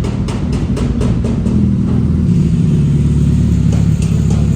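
Suzuki Hayabusa's inline-four engine running steadily and loud after its service, being run for a final check. A regular ticking sounds over it for about the first second and a half.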